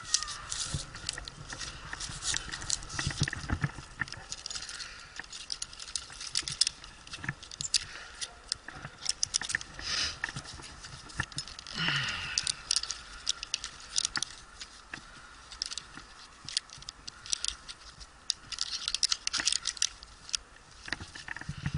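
Irregular clicking, rattling and scraping, as of climbing hardware and rope being handled high in a pine tree, with one falling glide about halfway through.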